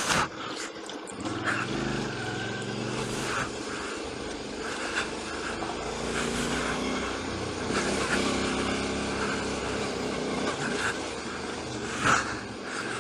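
Royal Enfield motorcycle engine running on a rough dirt track, its pitch rising and falling with the throttle. Tyre and gravel noise and a few sharp knocks from bumps.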